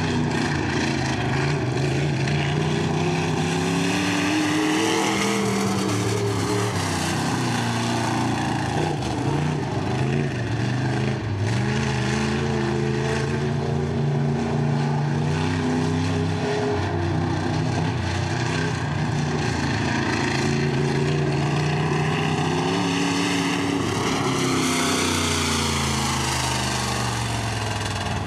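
B-Mod dirt-track race car's engine running laps, its pitch climbing as it accelerates and dropping as it eases off, over and over.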